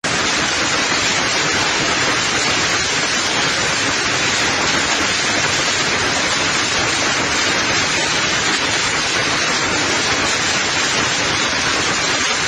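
Heavy precipitation of a hailstorm pelting down: a loud, dense, steady hiss of rain and hail with no separate strikes standing out.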